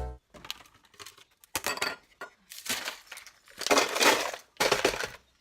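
Small hard objects being handled: a string of separate clinks, rattles and crinkly crunching bursts, the longest and loudest in the last second and a half.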